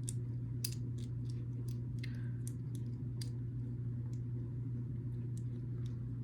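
Small plastic building bricks clicking and tapping as they are handled and fitted together: scattered light clicks over a steady low hum.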